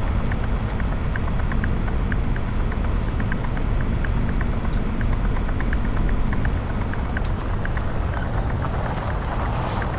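Semi truck's diesel engine running with a steady low rumble, with faint irregular light ticks over it.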